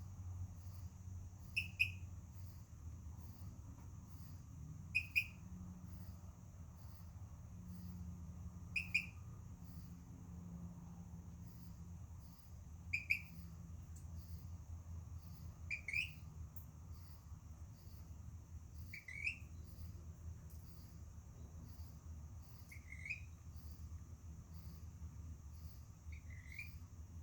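A short, high chirp repeated about eight times, one every three to four seconds, each note bending upward in pitch. It is typical of a bird call, though the source is not identified for certain.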